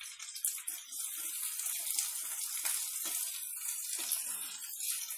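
Sliced onions and garlic sizzling in hot oil in a non-stick pan, with light scrapes and taps as a slotted spatula stirs them while they fry toward brown.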